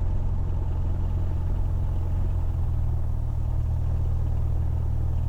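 Cessna 172's piston engine and propeller running steadily at taxi power, a continuous low drone.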